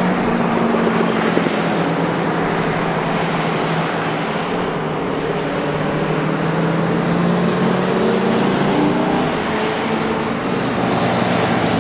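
Racing sports car engines running on the circuit, several cars at once, a steady loud sound with their pitches shifting slowly up and down.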